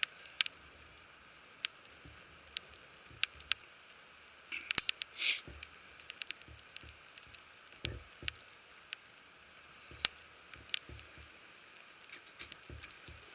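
Wood fire crackling in a campfire pit: sharp, irregular pops and snaps over a faint steady hiss, with a short hissing flare about five seconds in.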